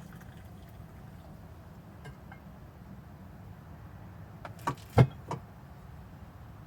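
A steady low hum, with three short knocks in quick succession about five seconds in, the middle one the loudest.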